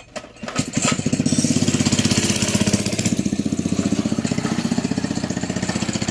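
A mini bike's small engine catching after a few clicks about half a second in, then running steadily with a fast, even firing beat.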